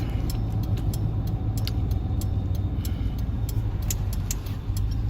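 Steady engine and road rumble heard inside the cabin of a moving vehicle, with scattered light clicks and rattles.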